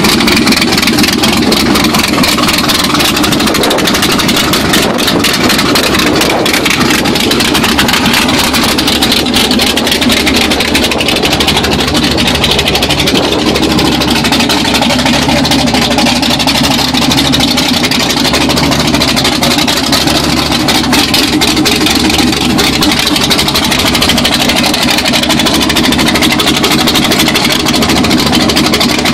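Supercharged V8 engine of an MGB GT drag car running steadily and loud at idle, with no revving.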